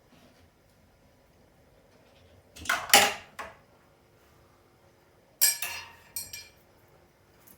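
Metal tools or parts clattering and clinking as they are handled and set down, in two short bursts about three seconds apart, the second with a brief metallic ring.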